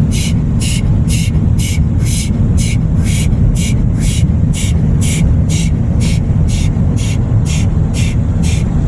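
Automatic car wash machinery heard from inside the car: a loud, steady low rushing with a regular hissing pulse about twice a second.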